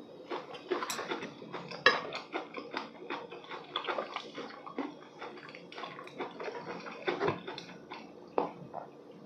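Close-miked chewing of a mouthful of corn mayo (sweet corn kernels in mayonnaise): many short, wet mouth clicks and smacks. A few sharper clacks of chopsticks and a spoon on the ceramic dishes, the loudest about two seconds in.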